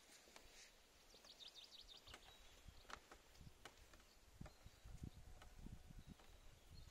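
Faint outdoor ambience: a small bird's rapid trill of high repeated notes lasting about a second, heard about a second in, with scattered faint clicks and low thuds in the second half.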